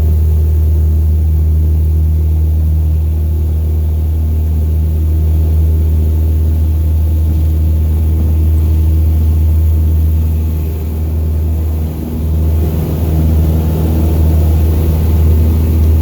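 Cessna 172 Skyhawk's piston engine and propeller droning steadily, heard from inside the cabin, with a brief dip in level about eleven seconds in.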